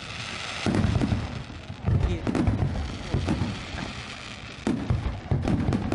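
A barrage of aerial firework shells bursting. Deep booms come irregularly, roughly one or two a second, with a hiss between them.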